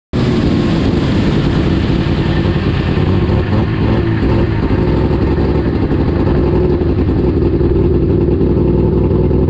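Drag-race car's engine running loud at a steady speed, heard from inside the cockpit; the sound cuts in abruptly right at the start.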